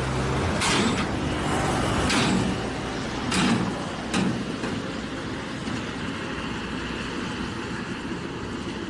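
Dump truck and loading noise: a diesel engine's low hum fades out in the first half second, over steady vehicle noise. Four short, sharp bursts follow in the first half, the loudest about three and a half seconds in.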